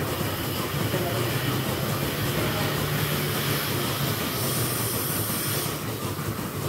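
Dairy milking-shed machinery running steadily, a low hum under a continuous hiss, with a sharper burst of high hiss about four and a half seconds in that lasts over a second.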